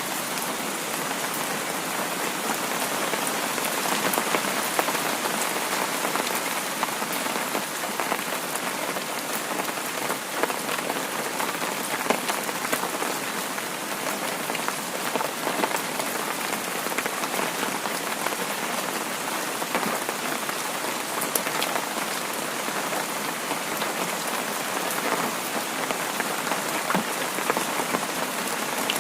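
Heavy rain falling steadily, a dense even hiss with many individual drop ticks spattering through it.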